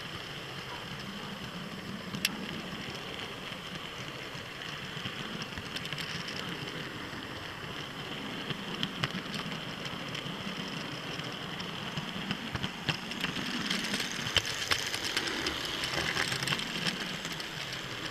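Hornby model trains running round the layout: a steady low motor hum with scattered sharp clicks of wheels over the rail joints.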